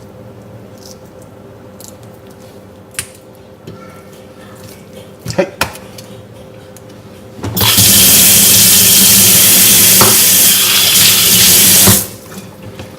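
Water running in a strong, steady stream for about four and a half seconds, starting abruptly and cutting off suddenly. A few light knocks come before it.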